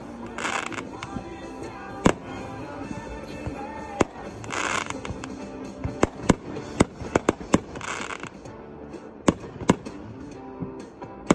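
Aerial fireworks bursting: sharp bangs scattered through, with a quick run of cracks in the second half and a few short hissing rushes, over music playing in the background.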